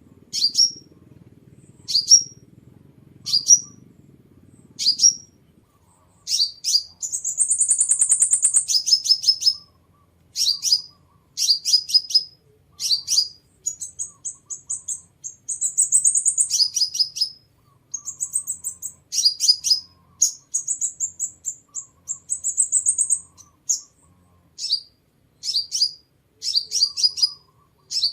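Sunbird calling: sharp, high single chips about every second and a half, then from about six seconds in quicker runs of chips broken by high, fast trills.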